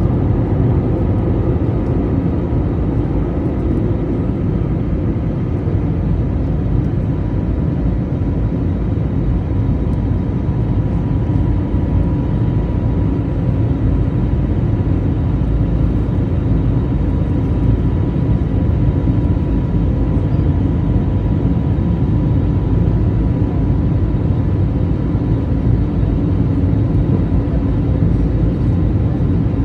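Jet airliner engines and rushing air heard from inside the cabin: a loud, steady drone with a faint steady whine above it.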